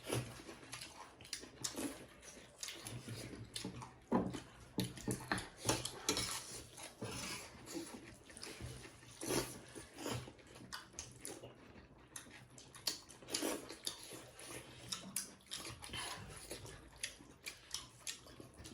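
Close-up eating sounds: chewing and lip-smacking on buffalo meat and rice in gravy, with many small irregular wet clicks and squelches.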